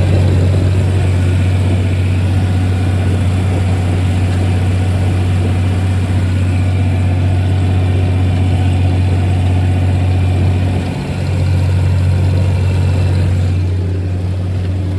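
A 1961 John Deere 4010's six-cylinder petrol engine running steadily, with a brief dip in sound about eleven seconds in.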